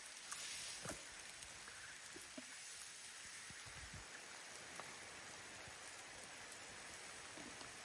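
Gentle rain falling steadily, a soft even hiss, with a few faint low thumps.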